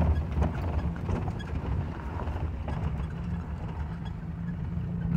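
Maruti car's engine running at low revs in first gear as the car pulls away slowly, heard from inside the cabin as a steady low hum. A few faint ticks and rattles come through over it.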